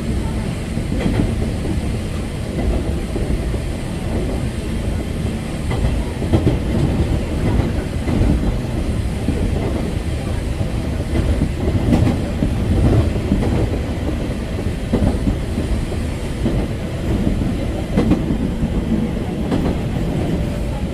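Eizan Electric Railway train running on the rails, heard from inside the car: a steady low rumble with occasional clicks as the wheels cross rail joints.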